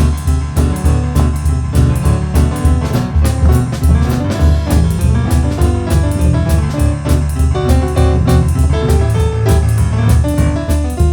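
Live boogie-woogie: piano over a steady driving drum beat, with a repeating rolling bass figure in the low end.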